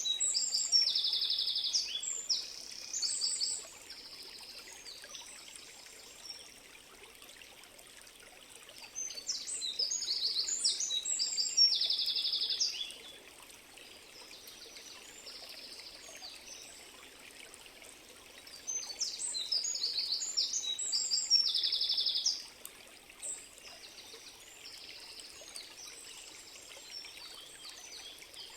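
Steady running water of a stream, with a songbird singing over it in three bouts of rapid trilled notes and chirps, about ten seconds apart.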